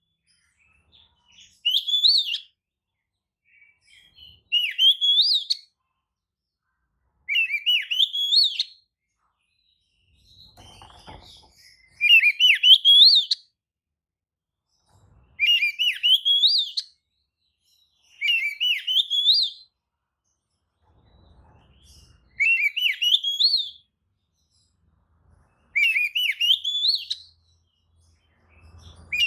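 Oriental magpie-robin singing the same short, rising, whistled phrase over and over, about once every three seconds. This is a lure song meant to provoke other magpie-robins into answering.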